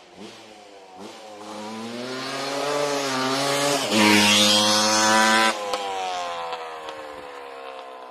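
Yamaha Blaster's 195cc single-cylinder two-stroke engine revving up with rising pitch, dipping briefly just before four seconds in, then running at its loudest and harshest for about a second and a half before the throttle comes off and the pitch winds down.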